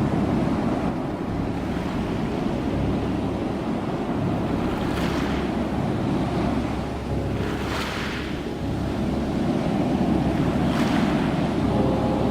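Ocean surf: a steady low rumble of waves, with a brighter hiss of breaking water swelling up about five, eight and eleven seconds in.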